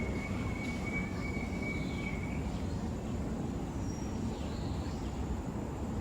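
Steady low outdoor rumble, with a thin high whistle held for about the first two seconds and a few faint, short high chirps of birds a little later.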